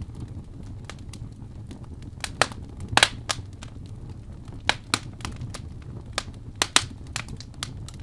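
Wood fire burning in a fireplace, crackling with irregular sharp pops over a low steady rumble of flames, the loudest cluster of pops about three seconds in.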